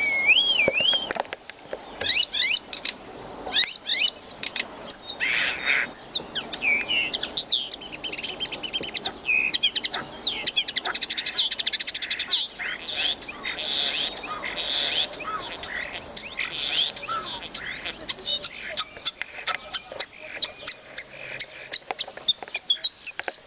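Songbird song of the kind used as masteran training recordings for caged birds: a dense, varied run of whistles, sweeping glides, rapid chirps and trills.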